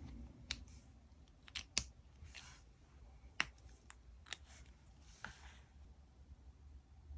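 Paper and stationery being handled while decorating a diary: a series of sharp clicks and taps, the loudest just under two seconds in, with two short papery swishes.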